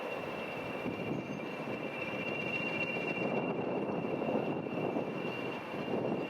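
A train running past: a steady rumble with a high, steady whine held throughout.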